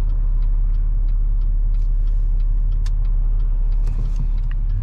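Steady low rumble of a car heard from inside the cabin, with a faint regular ticking about three times a second.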